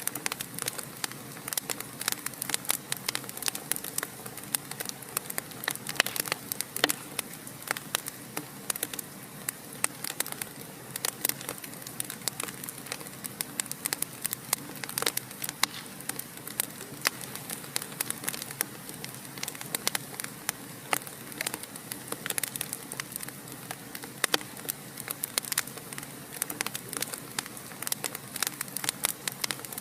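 Fireplace fire crackling: a dense run of small, irregular pops and snaps over a soft, steady hiss.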